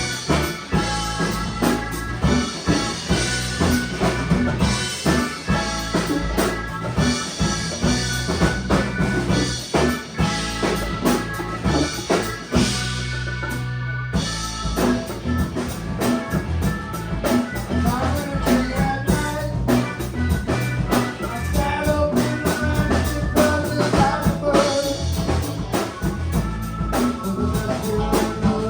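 Band playing a song: a drum kit keeps a steady beat under bass and other instruments, with a short break about halfway through before the full band comes back in.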